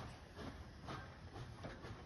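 Train behind a steam locomotive moving off slowly, a faint low rumble with a soft rhythmic knocking about twice a second.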